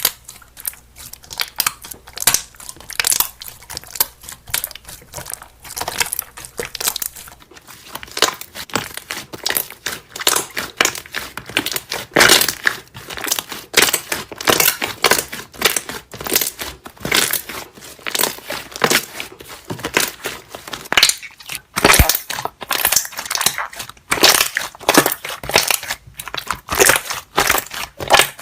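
Slime being squished, its trapped air bubbles popping in quick, irregular clicks and crackles.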